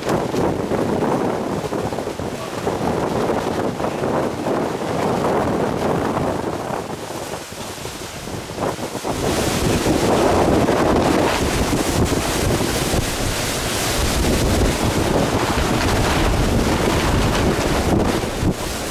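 Hurricane-force wind blowing hard and buffeting the microphone in gusts, with a strong gust building about nine seconds in and holding.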